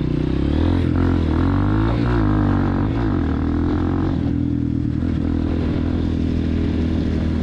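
Honda CRF230F dirt bike's single-cylinder four-stroke engine running while riding. Its pitch rises and falls with the throttle for the first few seconds, then holds steady.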